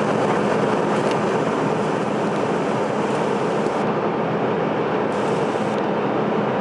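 Steady cabin noise inside a CRJ-900 regional jet in descent: airflow and engine noise at an even level, with a faint steady hum under it.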